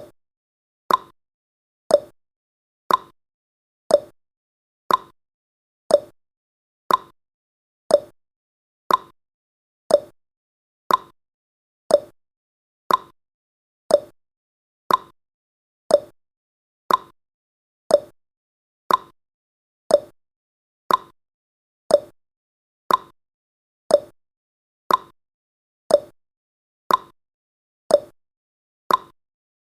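Countdown timer's ticking sound effect: one short, sharp tick every second, evenly spaced, with silence between.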